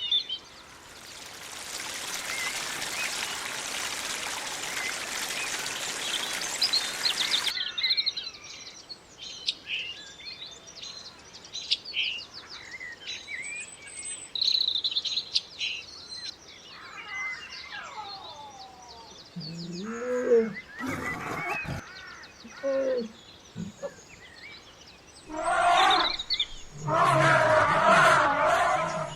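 A run of wildlife calls: a steady hiss for the first several seconds, then scattered bird chirps and whistles with a few low, rising-and-falling calls, and finally loud, harsh repeated calls near the end.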